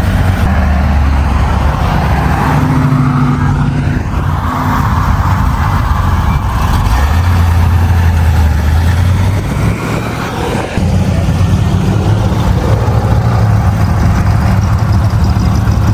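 Classic cars' engines running loud and low as the cars drive out one after another. A different engine note takes over suddenly about two-thirds of the way through.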